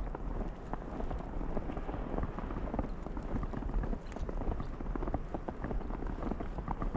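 Footsteps crunching through snow at a walking pace, a dense run of small irregular crunches over a steady low rumble.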